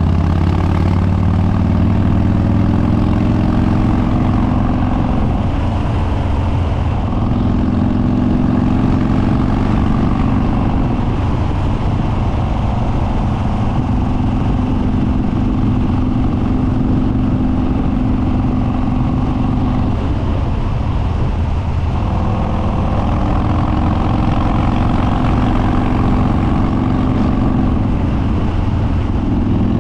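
Harley-Davidson Dyna Street Bob Twin Cam V-twin, fitted with Stage 2 cams, an open air filter and unbaffled upswept dual exhausts, running loud under way. Its note climbs and falls back several times as the throttle is worked.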